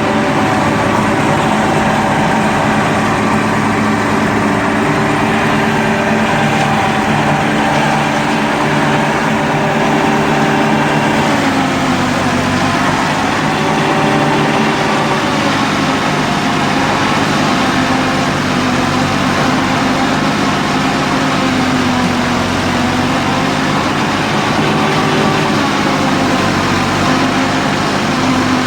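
The engine of a silage-making machine runs steadily at a constant loud level. Its pitch dips and recovers a couple of times, once about midway and again in the last third.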